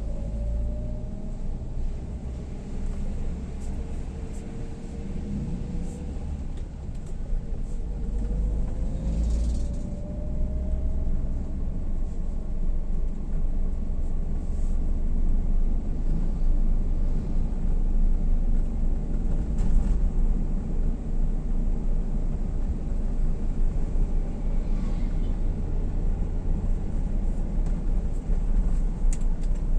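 A vehicle on the move: a steady low rumble, with a faint engine whine that dips and rises over the first dozen seconds. The whole sound grows gradually louder.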